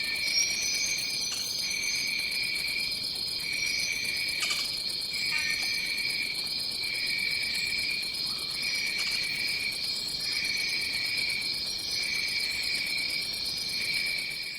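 Rainforest insect chorus: a steady high-pitched insect drone, with a second, lower insect trill pulsing about once a second. Faint short bird calls sound over it now and then.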